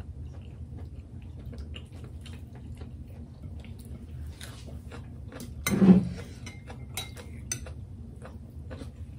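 Eating by hand: chewing, soft mouth clicks and fingers working rice and beef innards curry on plates, with small clicks and scrapes. One short, louder sound about six seconds in.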